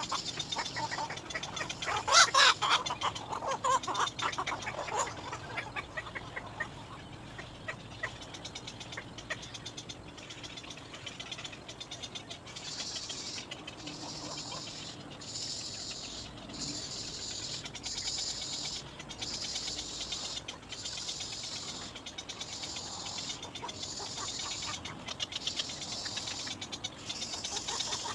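Baby birds calling for their parent, with a loud burst of rapid chattering calls about two seconds in, then a steadier high-pitched calling broken by short pauses.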